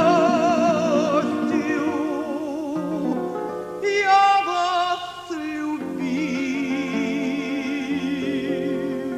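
A contralto voice sings a Russian romance with wide vibrato over instrumental accompaniment. She holds long notes, climbs to a higher note about four seconds in, and settles on a long low held note from about six seconds in.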